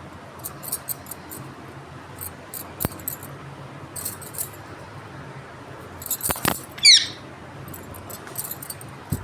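Pet parrot giving a quick, high, falling chirp a little before seven seconds in, the loudest sound here. Around it are scattered light clicks and scratches, with a sharper click about three seconds in.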